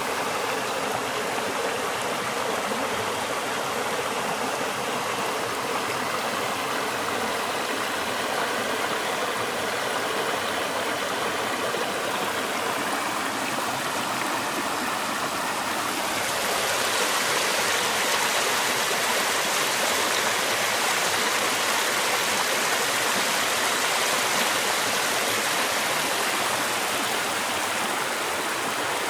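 A mountain stream rushing and splashing over rocks in a steady wash of water noise. About halfway through it grows louder and hissier, as if nearer a faster, more turbulent run.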